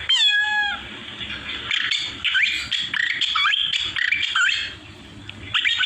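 A man mimicking bird calls with his voice, in the manner of a hill myna or starling. A squawking whistled call opens the sound, followed by a quick run of short rising chirps and whistles, a brief pause, and more chirps near the end.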